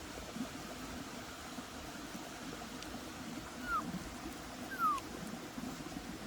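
Two short, high-pitched falling cries from a small animal, about a second apart, over a steady background hiss.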